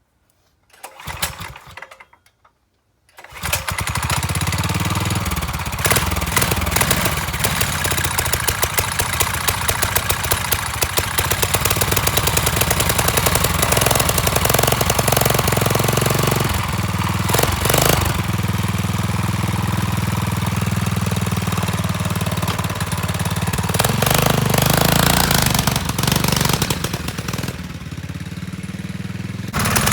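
Predator 301cc single-cylinder four-stroke engine in a dirt bike frame: a brief sputter about a second in, then it fires about three seconds in and keeps running, a little lower near the end.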